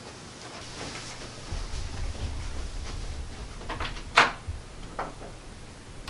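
Footsteps crossing a wooden bedroom floor, then the bedroom door being pulled to: a sharp click of the handle and latch about four seconds in, the loudest sound, and a fainter click about a second later.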